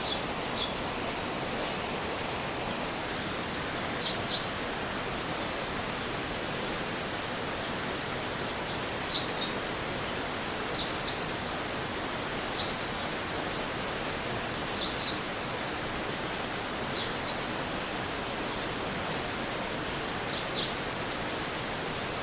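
Stream water flowing steadily, an even rushing noise, with short high chirps in twos and threes every two to three seconds.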